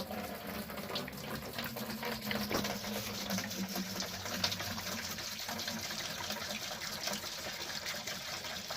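Antifreeze pouring from a jug into a funnel and running down a hose: a steady pour with small splashes. The hose is being filled so the engine won't start dry.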